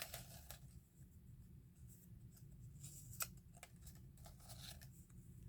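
Near silence with faint rustling and a few light ticks of paper being handled, one slightly sharper click about three seconds in.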